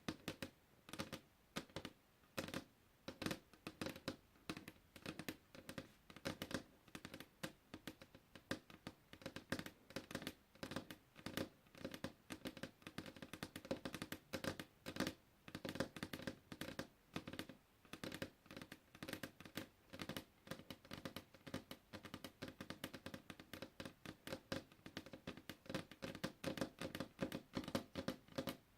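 Puzzle pieces being handled: many small irregular clicks and taps, several a second, with some scratching as pieces are moved.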